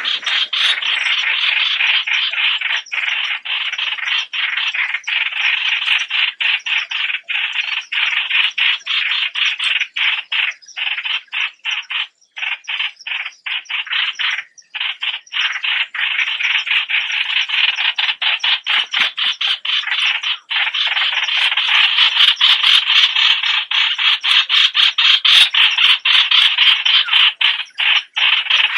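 Streak-eared bulbuls calling in a dense, rapid chatter of short, sharp notes, packed so tightly the calls barely break.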